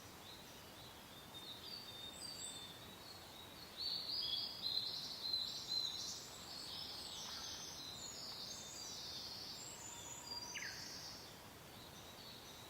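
Several songbirds chirping and trilling over a soft, steady hiss of wind. The birdsong grows busiest and loudest about four to six seconds in, then thins out.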